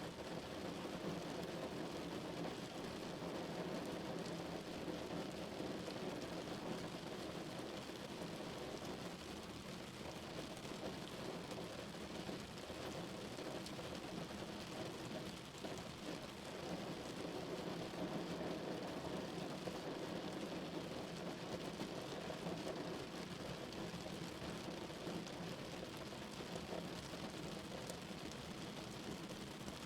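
Steady rain drumming on a car's roof and windows, heard from inside the cabin, as a dense even patter.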